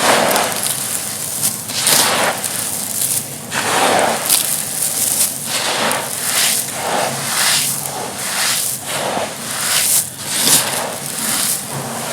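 Dry, dusty, stony-textured crumble material being crushed and broken apart, in a steady series of crisp crunches, about one or two a second.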